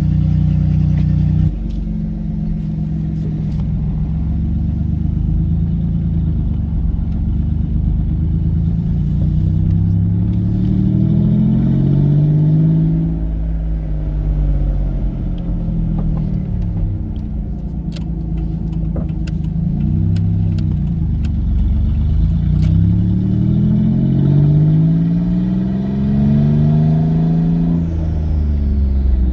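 Twin-turbo V6 Mustang engine idling briefly, then pulling away and accelerating through the gears. Its pitch rises and drops back at each shift, several times over. The car is running without stalling on a newly fitted higher-flow DW 340 lph fuel pump.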